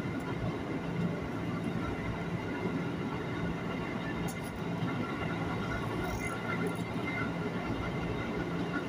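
Electric commuter train (KRL) running at speed, heard from inside the carriage: a steady rumble of wheels on the rails with a low, constant hum.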